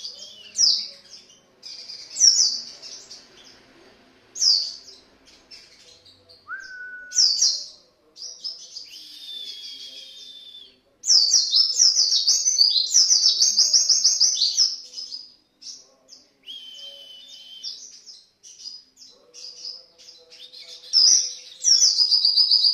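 White-eye (pleci) singing vigorously: high, quick chirping phrases, breaking into a long, fast twittering run about halfway through and again near the end.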